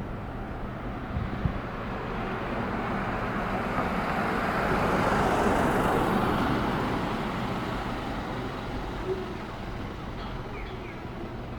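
A road vehicle passing by: its noise swells to a peak about five seconds in and then fades, over a steady low hum.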